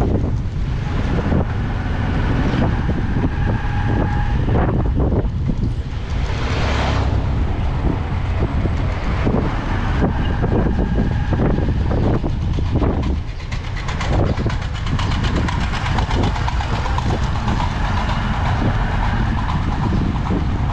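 Motorcycle running on a street ride, a continuous rumble. Twice a short steady tone sounds over it.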